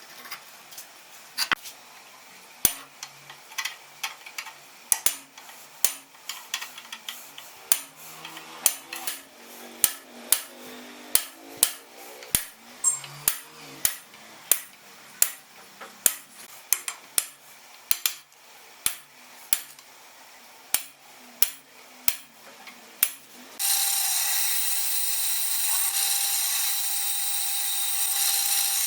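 Workshop tool work: a long run of sharp knocks with short ringing tails, roughly one to two a second. Near the end a power tool switches on suddenly and runs steadily with a high, hissing whine.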